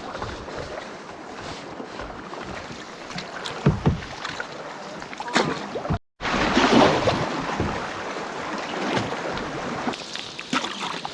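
Splashing water around a canoe being paddled through choppy lake water, with sharper splashes from the paddle strokes. It breaks off for an instant about six seconds in and is louder after that.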